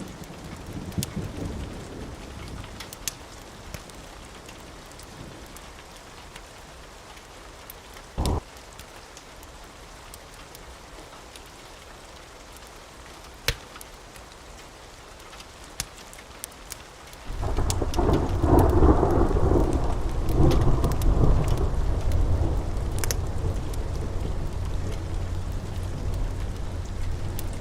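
Steady rain with scattered sharp crackles and a single thump about eight seconds in. About seventeen seconds in, a loud rolling thunderclap sets in suddenly and rumbles on, easing only slightly.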